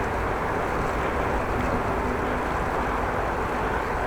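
Steady rush of wind buffeting the microphone while riding a bicycle, mixed with the riding noise.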